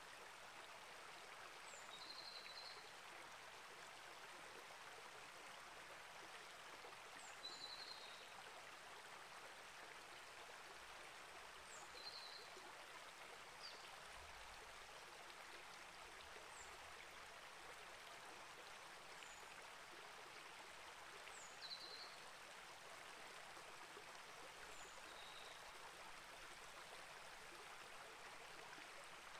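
Faint, steady flow of a small rainforest creek over rocks. A bird gives short high chirps every few seconds above the water noise.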